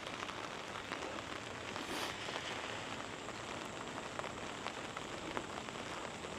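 Monsoon rain falling steadily, an even hiss with the patter of many individual drops landing close by.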